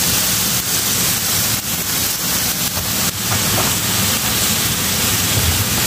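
Sliced eggplant, pork fat and liver sizzling in hot oil in a frying pan, a steady even sizzle.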